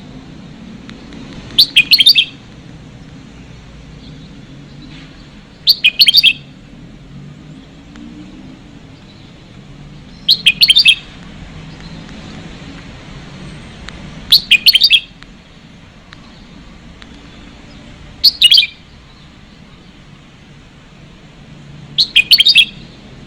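Red-whiskered bulbul song: a short, loud phrase of quick chirping notes, repeated six times at about four-second intervals.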